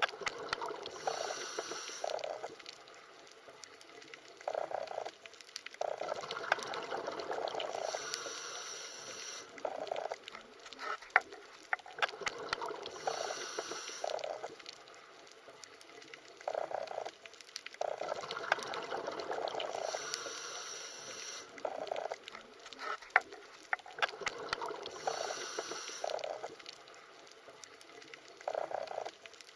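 Underwater ambience: bubbling and gurgling water that swells and fades in surges about every six seconds, with scattered sharp clicks.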